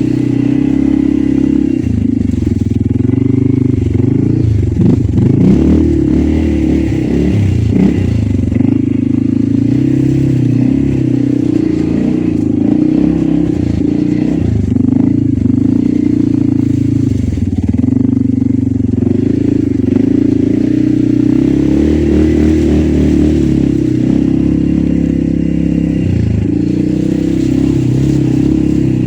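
Loncin X-Wolf 550L ATV engine running under way, its revs dipping and rising again several times.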